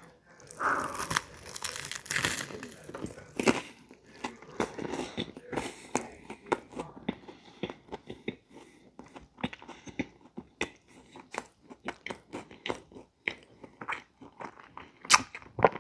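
A person biting into and chewing a fish sandwich on buttered bread, with irregular wet crunches and smacks.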